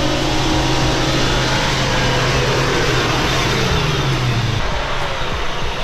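Off-road 4x4 engine running under load over a loud, steady rush of noise. The engine note drops about four seconds in as the revs fall.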